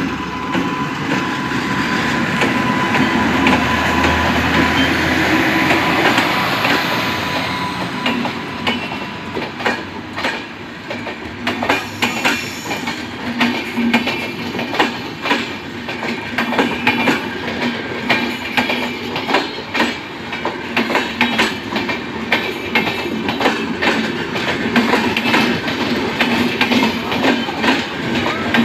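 Passenger train departing at low speed. A broad rumble comes first, then from several seconds in the wheels click over the rail joints as the LHB coaches roll past.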